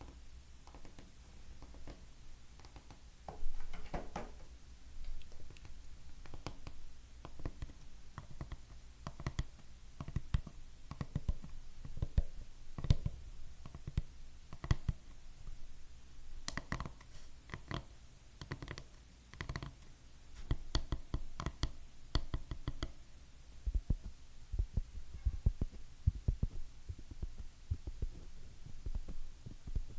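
Fingernails tapping on hard objects, fast and uneven, with some taps ringing briefly; from about 24 seconds in the taps turn duller and deeper.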